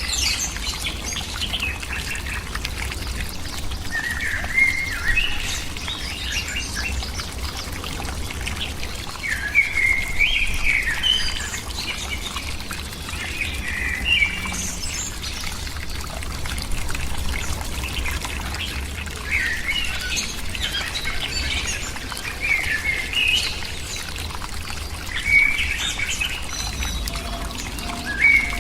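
Birds calling in short, high chirping phrases that come back every few seconds, over a steady background hiss and a low rumble.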